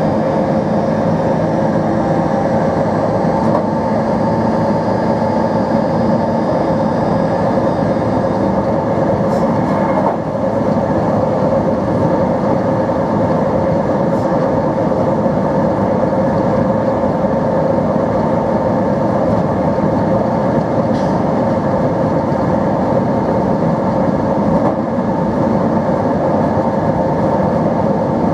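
Diesel engine of an NMBS/SNCB AM80 (Alstom Coradia Lint 41) diesel multiple unit running steadily. It makes a constant hum of several steady tones over an even rumble.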